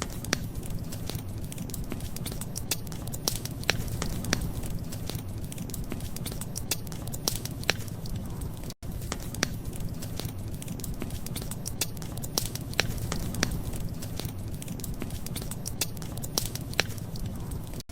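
Wood fire crackling, with irregular sharp pops and snaps over a steady low rumble. The sound drops out for an instant about nine seconds in.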